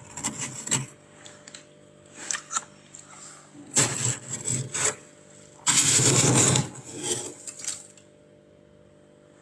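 Freezer frost being scraped off in several short, rough bursts over a steady low hum, the longest and loudest about six seconds in.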